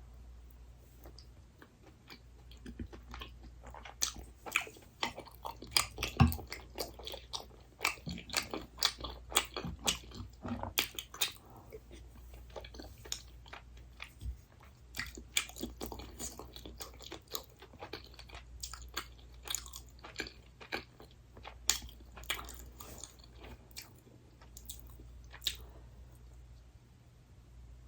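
Close-miked chewing and biting of crunchy food, a dense run of irregular crisp crunches.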